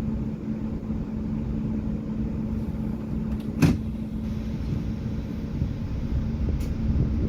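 Inside a moving express bus: steady engine and road rumble with a constant low hum, and one sharp knock about halfway through.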